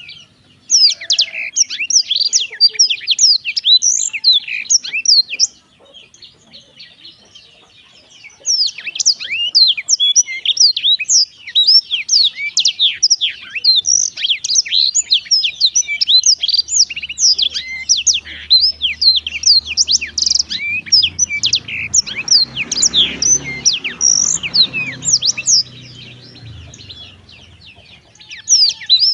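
Black-throated canary (blackthroat) singing a fast, nearly continuous song of high twittering chirps and trills, broken by a pause of about two seconds around six seconds in.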